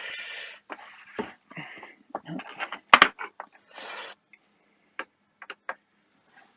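Handling noises on a workbench as a benchtop frequency counter is unplugged and turned round to get at its back screw: a couple of sharp knocks, short scraping and rustling bursts, then a few light ticks.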